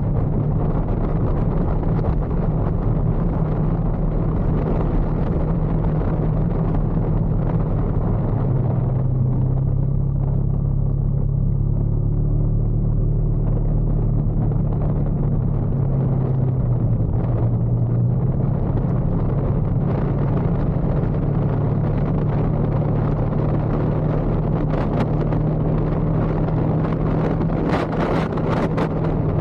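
Motorcycle engine running while riding, with wind and road noise; the engine note shifts a couple of times as speed changes. A few sharp clicks near the end.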